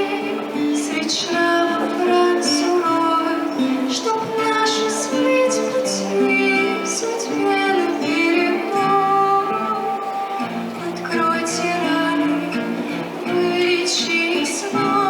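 A female voice singing a song with guitar accompaniment.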